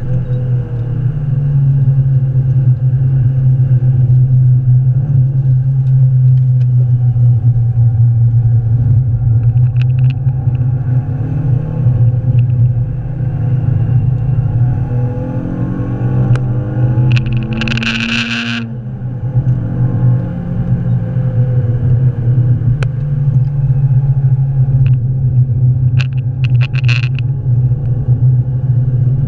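Renaultsport Clio 182's 2.0-litre four-cylinder engine running hard on track, heard from inside the cabin as a loud, steady deep drone. The engine note changes a little past halfway and briefly dips in loudness, with short high-pitched squeals at that point and again near the end.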